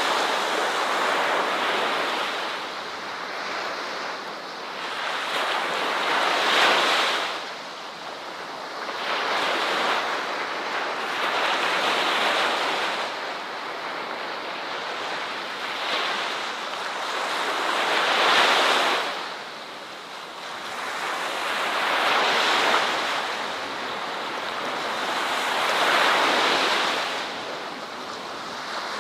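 Ocean waves breaking and washing on a shore, the surf swelling and falling away every four to six seconds.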